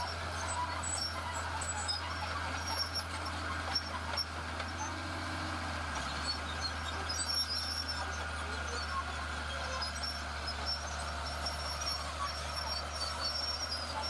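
Heavy earthmoving machine's diesel engine running steadily with a low drone, its tone shifting slightly about six seconds in.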